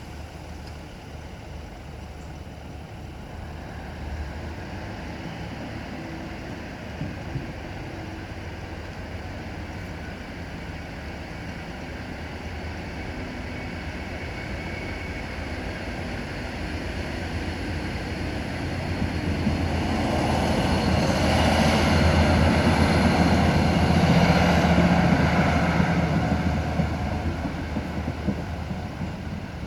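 A vehicle approaching and passing close by over a steady outdoor background, building over several seconds, loudest about two-thirds of the way through, then fading.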